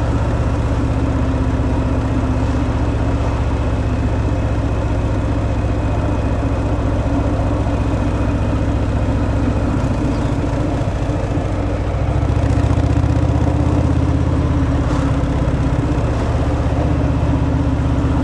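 Harley-Davidson Fat Boy's V-twin engine running through the stock exhaust, steady and low, getting a little louder about two-thirds of the way through.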